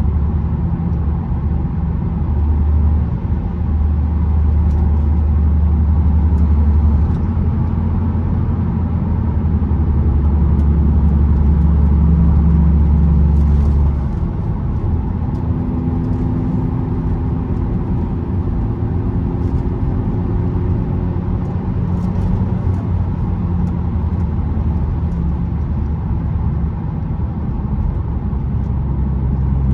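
Audi S3 8P's turbocharged 2.0-litre four-cylinder engine running under way, a steady low drone over road noise. About halfway through the engine note drops and quietens, as when easing off the throttle.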